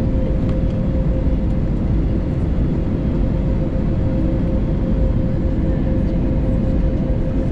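Cabin noise inside an Airbus A320neo on final approach: a loud, steady rush of airflow and engine noise with a steady hum running through it.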